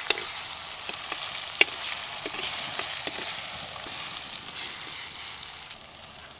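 Onions, garlic and curry leaves sizzling in hot oil in an earthen clay pot, stirred with a thin metal ladle that clicks against the pot now and then, with one sharper tap about a second and a half in. The sizzle slowly dies down.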